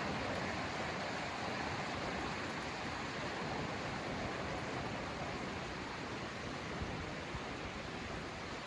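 Forest ambience: a steady, even rushing noise with no distinct events.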